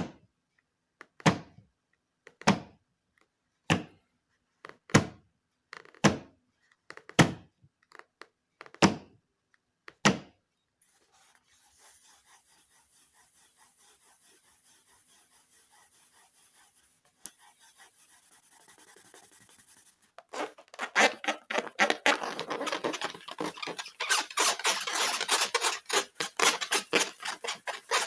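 Slime being handled: about nine evenly spaced thuds, roughly one every 1.2 seconds, like slime slapped down. After a faint, quiet stretch, a dense run of rapid crackling, clicking squishes begins about twenty seconds in.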